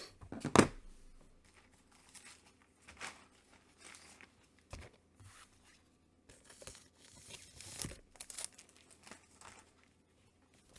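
Comic books being handled and shuffled: intermittent rustling and crinkling, with a louder rustle about half a second in.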